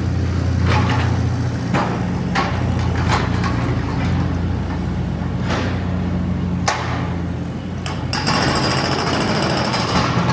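A steady low mechanical hum with irregular sharp knocks and clanks over it; about eight seconds in, a fast, fine rattle joins.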